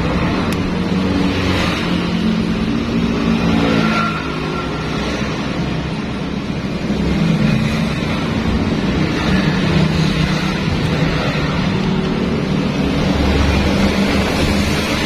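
Engine running steadily, its pitch dipping and rising a little as the revs change.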